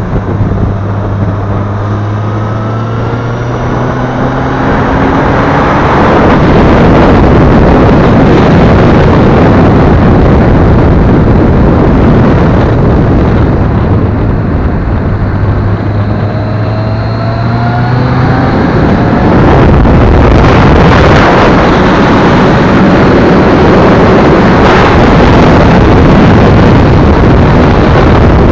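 Honda CBF1000's inline-four engine accelerating out of a corner with its note slowly climbing, then buried under loud wind roar on the bike-mounted microphone as speed builds. This happens twice.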